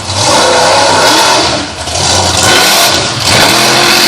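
A loud vehicle engine revving hard in two long bursts, dropping off briefly about two seconds in before revving up again and holding.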